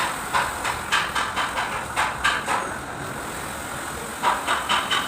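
Rhythmic knocking, about four sharp knocks a second, in two runs with a pause of about a second between them.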